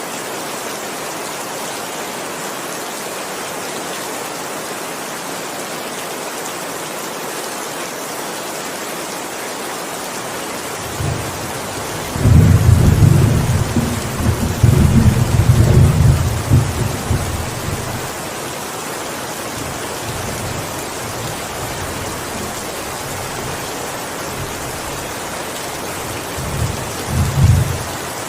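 Steady heavy rain with a roll of thunder: a deep rumble builds about eleven seconds in, is loudest for several seconds and fades, and a shorter, fainter rumble comes near the end.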